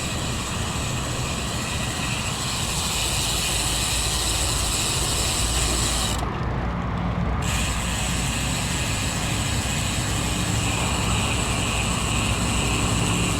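Road bike's rear freewheel hub ticking rapidly while coasting, stopping for about a second around the middle, over steady wind and tyre noise.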